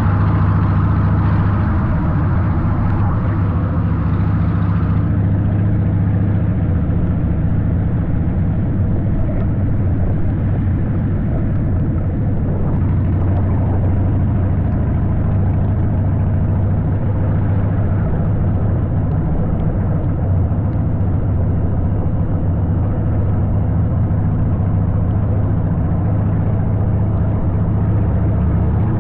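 Steady low drone of a running engine, with an even hum that does not change.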